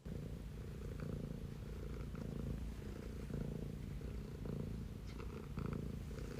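Domestic cat purring loudly and steadily close to the microphone, a low rumble that swells and eases with each breath in and out.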